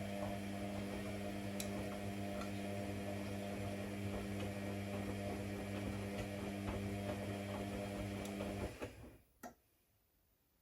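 A steady electric hum, a low buzz at mains frequency, that runs for about nine seconds and then stops, followed by a single click about a second later.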